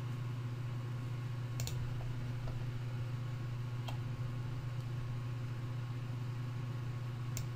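A few sparse, faint clicks from a computer being worked, over a steady low electrical hum.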